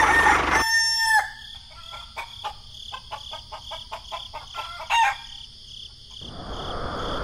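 A rooster crowing, ending about a second in, then small birds chirping, with one louder short call about five seconds in. A steady hiss of rain starts near the end.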